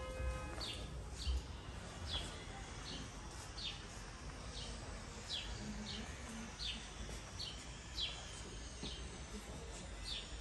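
A small bird chirping over and over in short, high chirps that fall in pitch, roughly one a second, with a pause of a second or so about halfway through. A low rumble runs underneath.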